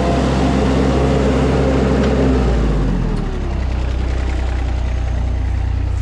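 Skid steer engine running hard under working load, its note dropping about halfway through as the revs come down, then running on lower and steadier.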